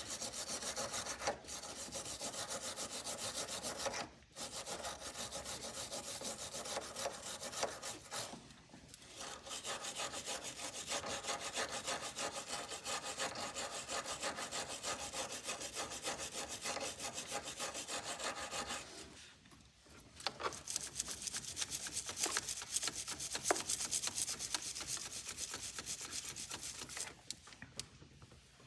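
Hand wire brush scrubbing back and forth on a metal engine ground connection, cleaning its contact surfaces for a good ground. Fast, scratchy strokes with a few short pauses and a longer one about two-thirds of the way through.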